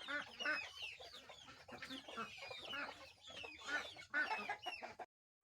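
Bantam chickens and young chicks: many short, high, falling peeps with low clucks among them. The sound cuts off abruptly about five seconds in.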